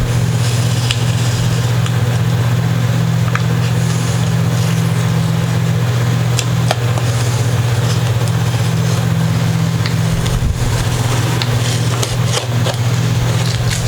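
A steady low hum from something running, with scattered light ticks and crackles over it as tape is peeled off.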